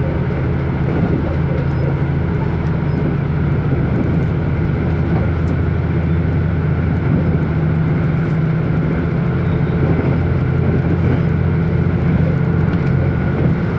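Running sound of a Wide View Hida limited express diesel railcar heard from inside the carriage: a steady engine drone with the rumble of wheels on the rails.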